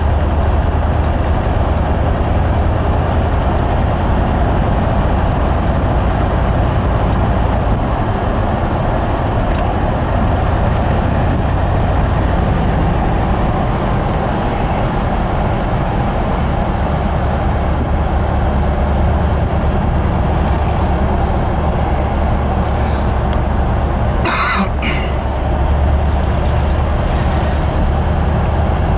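1970 Ford Bronco running steadily: a constant low rumble with a noisy haze over it, and one brief sharp noise near the end.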